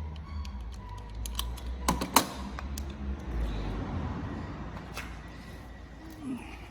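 Irregular small clicks and taps of hand tools and parts being handled, with two sharper clicks about two seconds in, over a low steady hum.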